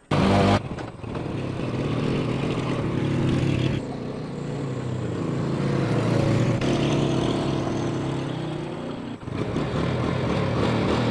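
A motorcycle engine starts loud and runs steadily, its pitch sinking and climbing again as the revs change, with a brief drop about nine seconds in.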